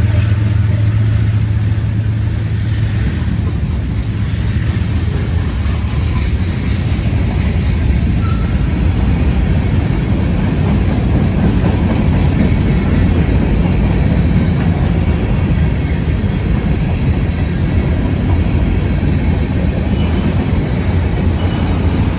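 Freight train cars rolling past close by, a steady rumble of steel wheels on rail. In the first few seconds the hum of the diesel locomotives that have just passed fades away.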